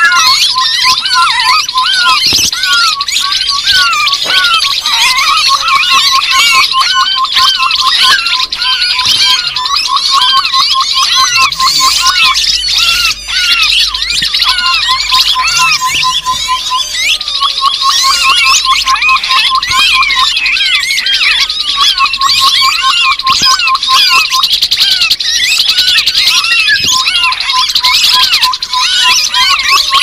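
Bird-lure recording of grey-headed babblers (Stachyris poliocephala): a dense, busy chorus of quick sweeping chattering calls. Under it are runs of rapid, evenly repeated low piping notes that stop and start every few seconds.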